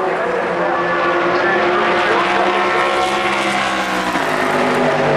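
Race car engines running at a circuit, several engine tones heard at once. One engine note drops in pitch about four seconds in.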